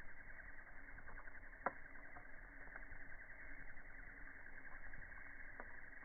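Campfire crackling: a steady run of small snaps and ticks from burning wood, with one sharp, louder pop just under two seconds in.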